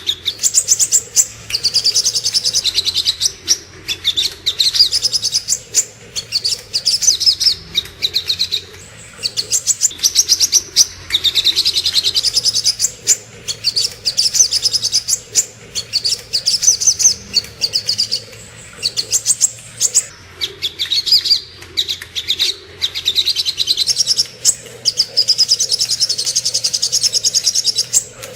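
Little spiderhunter (sogok ontong) singing: fast, high-pitched chattering trills in phrases of a second or two, repeated over and over with short pauses between them.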